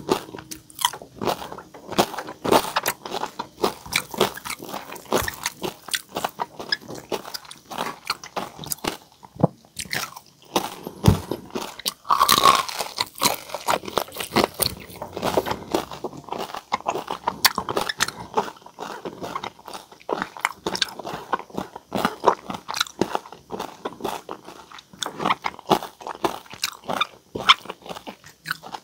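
Close-miked chewing and crunching of crispy deep-fried pork skin and meat (crispy pata), dense irregular crunches with each bite and chew.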